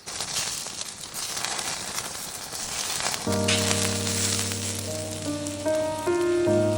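Food sizzling over the campfire, a steady hiss. Background music comes in about three seconds in and plays over it.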